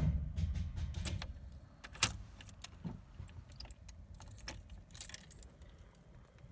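Keys jangling, with scattered sharp clicks. Under them a low rumble starts with a loud hit at the beginning and dies away over about three seconds.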